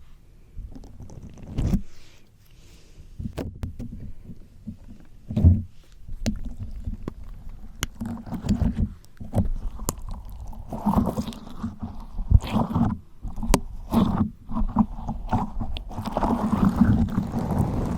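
Slime squished and pressed against a microphone: irregular low, wet squelches with sharp sticky pops and clicks, growing busier and louder in the second half.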